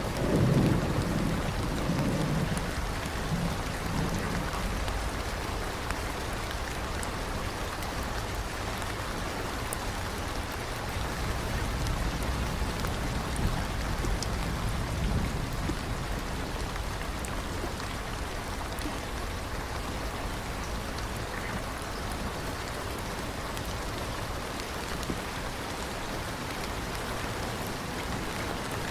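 Steady rain, with a roll of thunder at the start and a fainter rumble of thunder about halfway through.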